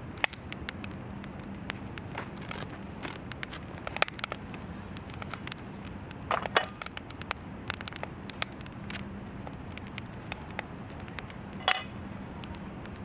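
Wood fire in a fire stand crackling, with irregular sharp pops and a couple of louder ones about six and a half and eleven and a half seconds in.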